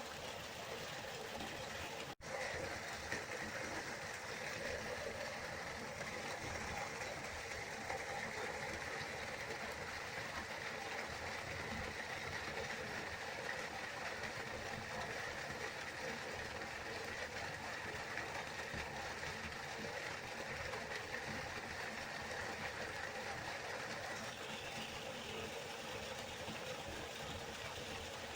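River water flowing in a steady rush. It cuts out for an instant about two seconds in.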